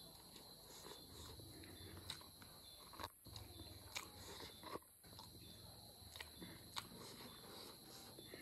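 Faint close-up eating sounds: chewing, with sharp mouth clicks and smacks about once a second as goat-head meat is pulled apart by hand and eaten.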